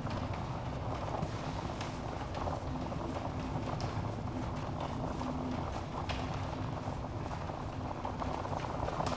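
Wood logs burning in a fireplace: a steady low rush of flames with scattered sharp crackles and pops.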